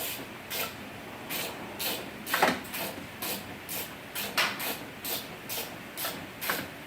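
Hand ratchet driving in the bolts that clamp the window glass to the regulator, clicking in short bursts roughly twice a second.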